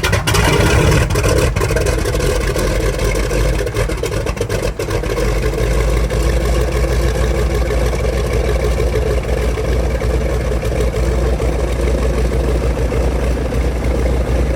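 A C-53's Pratt & Whitney R-1830 fourteen-cylinder radial engine catching on its start and running. It fires abruptly and runs roughly with sharp pops for the first few seconds, then settles to a steady, deep running note.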